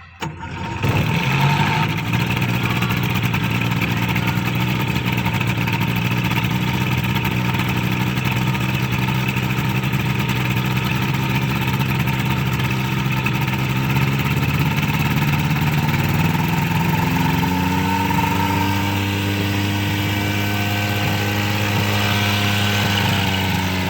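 An engine running steadily and loudly, starting abruptly just under a second in, its pitch rising a little from about two-thirds of the way through.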